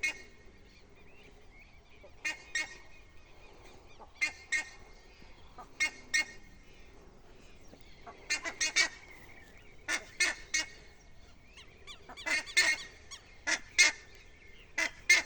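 Several buff-necked ibises (curicacas) calling: harsh honking notes, often in quick pairs or clusters, repeated every second or two throughout.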